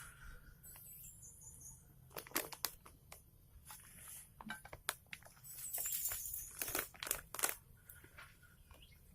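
Faint crinkling and rustling of a plastic bird-feed packet being handled, with scattered small clicks and taps and a longer rustle about halfway through.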